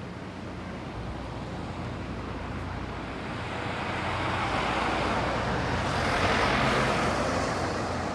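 A motor vehicle passing: a steady low engine hum under a rushing noise that builds and peaks near the end.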